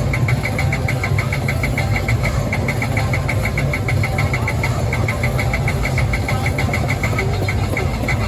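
Vehicle engine running steadily with a dense low rumble, and a rapid, even high-pitched ticking of about six beats a second over it.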